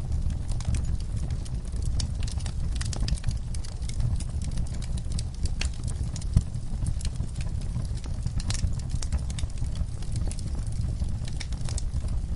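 Wood fire burning in a fireplace, crackling with frequent sharp irregular pops over a low steady rumble, one pop louder about halfway through.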